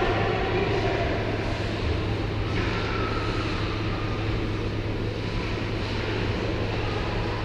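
Ice hockey arena ambience: a continuous wash of rink and crowd noise over a steady low hum.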